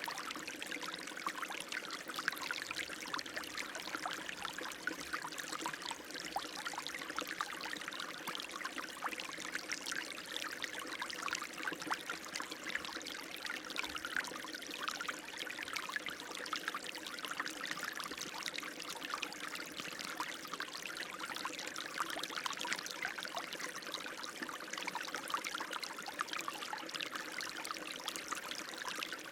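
Running water, a steady unbroken flow with dense small splashes and no change in level.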